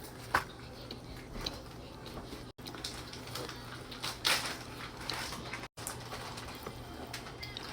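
Close-up eating sounds: chewing with scattered short crunches and clicks, the loudest about four seconds in, over a low steady hum. The sound cuts out abruptly twice.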